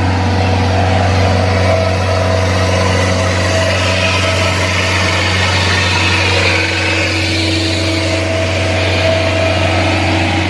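Excavator's diesel engine running steadily at an even speed, a constant deep drone with no change in pitch.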